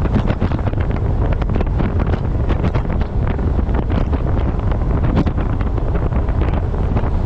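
Loud, steady wind buffeting the microphone of a camera mounted on the front of a moving truck: a constant low rumble with many short crackles.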